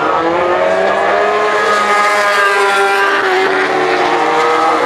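MotoGP race motorcycles with 800 cc four-stroke engines on their cool-down lap, several engines passing at part throttle, their pitch rising and falling as they come through.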